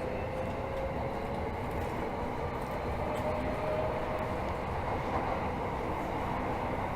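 Tokyo Metro 13000 series subway car running between stations, heard from inside: a steady rumble of wheels and running gear, with a faint whine that rises slightly in pitch over the first few seconds.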